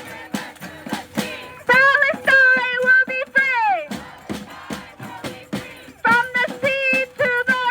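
Live music: a high voice sings two phrases of long held notes, each ending in a falling slide, over a steady rhythmic accompaniment.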